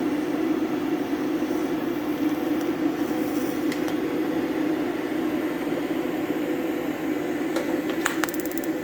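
Steady mechanical hum with even noise, with a few light clicks and a quick run of clicks near the end.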